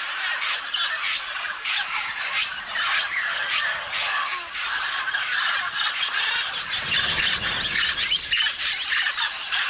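Parrots screeching and squawking continuously in many short, shrill calls, with a brief low rumble about seven seconds in.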